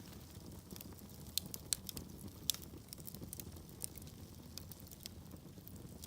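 Wood fire burning in a fireplace: a low, steady rumble of flames with scattered crackles and pops from the logs, the sharpest pops coming between about one and a half and two and a half seconds in.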